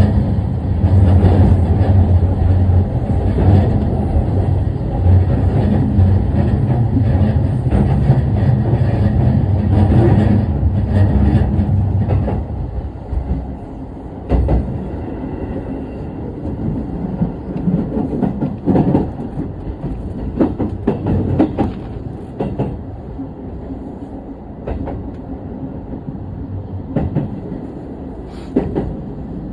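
Ueno-Tokyo Line commuter train running, heard from aboard: a loud rumble of wheels and running gear that drops off about twelve seconds in as the train slows into Tokyo Station, then scattered clicks of wheels over rail joints.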